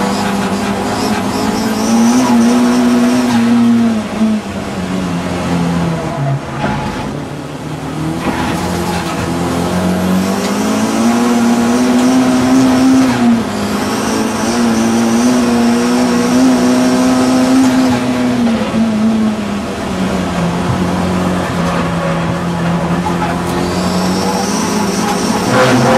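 Audi TT race car's engine at racing speed, revs climbing, holding and falling again several times as it is driven through gears and corners, with a short lift off the throttle about six seconds in.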